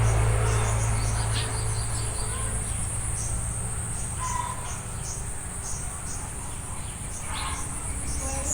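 Steady high-pitched insect drone, with short repeated chirps and a few brief bird calls over it. A low engine hum fades out over the first two seconds.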